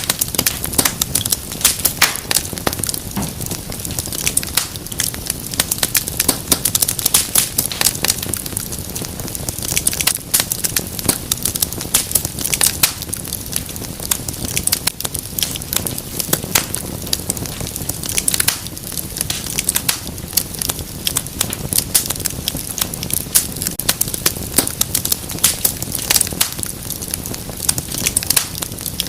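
Wood fire burning in a fireplace, a steady low rumble under constant irregular crackles and pops.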